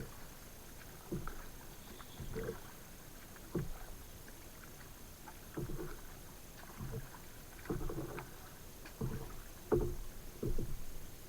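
Kayak paddle strokes dipping into the water, roughly one splash about every second, over a steady faint hiss.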